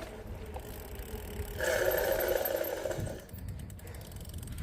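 Bicycle braking with a screech that lasts about a second and a half, over wind rumble on the microphone. The friend takes the noise as a sign the tyres need replacing.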